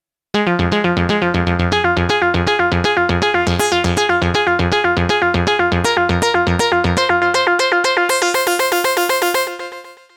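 Sequential OB-6 analog polysynth playing a fast, evenly repeating sequenced pattern of about eight notes a second over held chord tones. The low notes drop out near the end, the sound brightens, and it then fades away.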